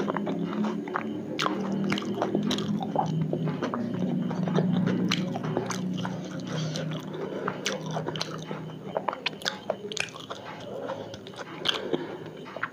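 Close-miked chewing of a battered, deep-fried potato fritter (alur chop), with many small sharp mouth clicks and crackles scattered throughout.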